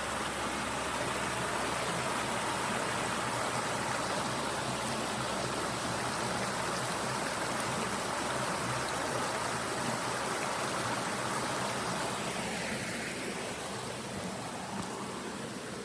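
Creek water rushing, a steady even rush that eases slightly over the last few seconds.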